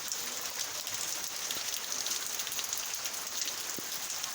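Heavy rain falling steadily, a dense hiss with many small drop impacts.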